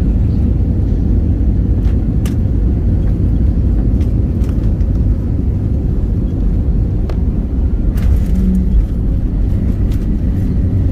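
Steady low rumble of an airliner cabin during landing, with a faint steady hum above it and scattered light clicks and rattles.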